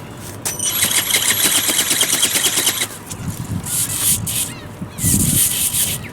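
Ornithopter's small brushless motor and gearbox whining while its wings flap with a rapid, even pulsing, loud for about two seconds and then cut off. After that come two gusts of strong wind buffeting the microphone.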